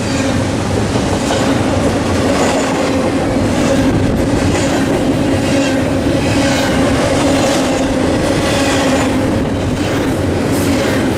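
Freight train cars passing close at speed, their wheels clattering over the rails with a steady hum underneath.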